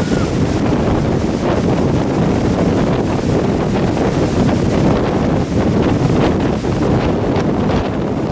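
Strong wind blowing across the microphone: a loud, low rumbling buffet that rises and falls with the gusts.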